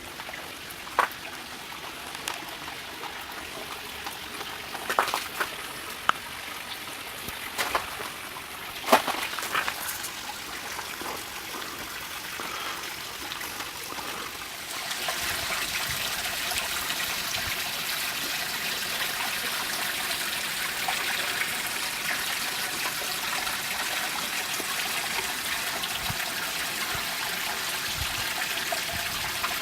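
Freezing rain pattering and water trickling and dripping in an ice storm, with a few sharp cracks in the first half. About halfway through the patter grows louder and steadier.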